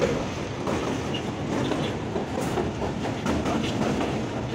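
Passenger train coach running at speed, heard from its open doorway: a steady rumble of wheels on the rails with a light clickety-clack of rail joints.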